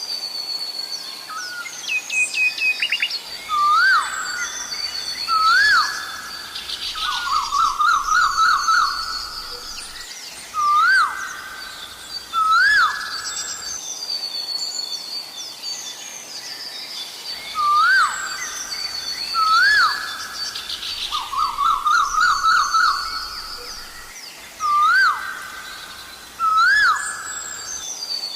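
Asian koel calling: loud rising notes in pairs about two seconds apart, with a quick run of notes between them, over the chirping of smaller birds. The same stretch of calls comes round twice.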